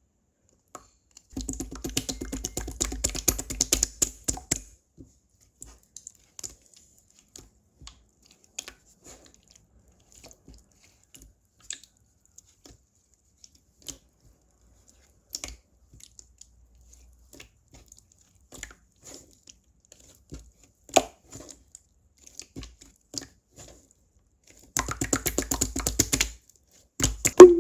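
Clear slime being squeezed and stretched by hand, giving two bursts of rapid crackling clicks, one a second or so in and one near the end, with scattered single pops and clicks in between.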